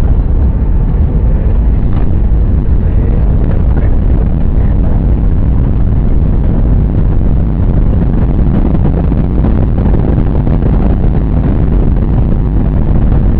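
Loud, steady rumble of an airliner's engines and airflow heard from inside the passenger cabin during the approach or landing.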